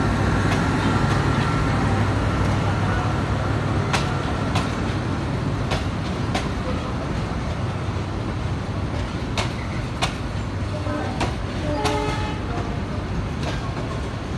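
Passenger coaches of a Bangladesh Railway intercity train rolling past, the wheels clacking sharply over rail joints at uneven intervals above a steady low rumble.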